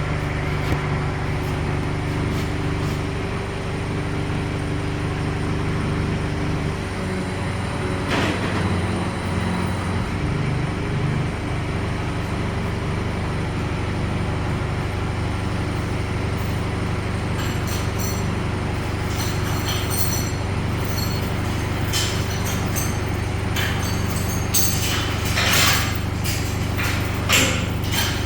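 Steady mechanical hum of a running machine, joined in the second half by scattered clanks and short bursts of hiss.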